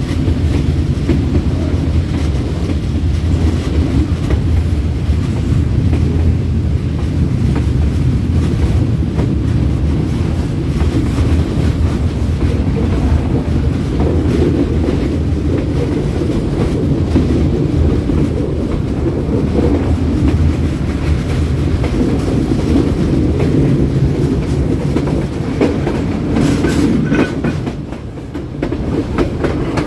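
Passenger train running on the rails: a steady low rumble of wheels and carriages on the track, dipping briefly near the end.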